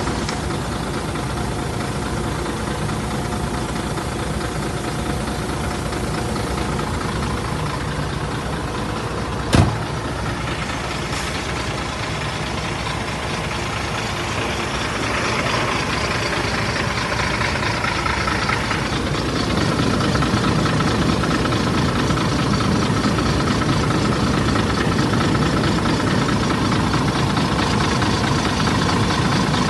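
Scania 93 truck's six-cylinder diesel engine running with a knocking diesel clatter. A single sharp knock comes about a third of the way in, and the engine grows louder from about halfway on.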